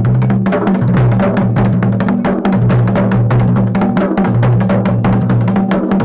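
Dhol and damau drums playing a fast, dense mandan rhythm, stroke after stroke without a break.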